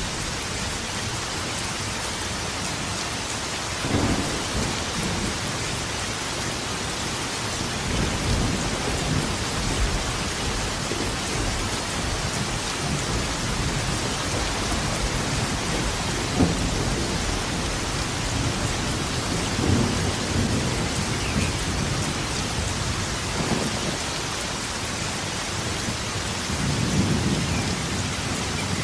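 Steady rain with repeated low rolls of thunder, the first about four seconds in and the longest near the end.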